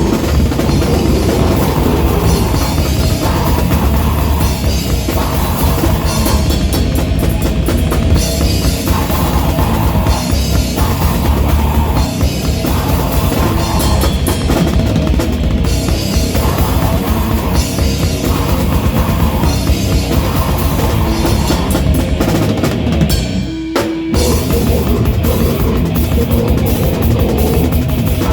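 Rock band playing live and loud, a drum kit driving a fast beat under the full band, with a short break near the end before the band crashes back in.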